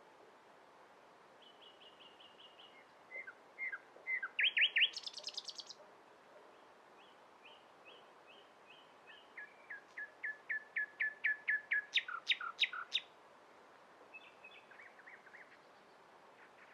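Common nightingale singing: two song phrases of repeated high notes. The first ends in a loud rapid burst. The second is a long run of quick repeated notes that grows steadily louder, peaking about twelve seconds in, followed by a few faint notes near the end.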